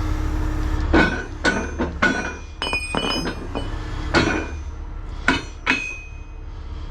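Heavy steel tow rigging being handled: a run of sharp metal clanks and knocks, about seven strikes, a few with a bright ringing tone about three seconds in, over a low steady rumble.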